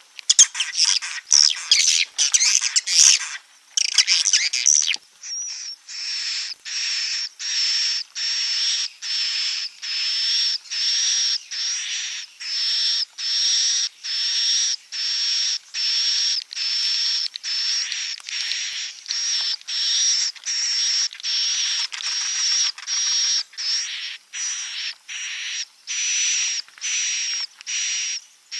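Swiftlet 'inap' (roosting) lure call recording, as played to draw swiftlets into a nest house. About five seconds of dense, overlapping chattering chirps, then short rasping calls with a high tone through each, repeating evenly about one and a half times a second.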